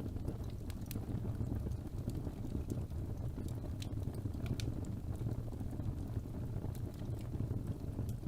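Wood fire burning in a fireplace: a steady low rumble of flames with irregular small crackles and pops throughout.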